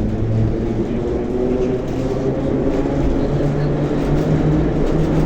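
Moscow metro train running between stations, heard from inside the car: a steady running rumble with a motor hum that climbs in pitch as the train gathers speed.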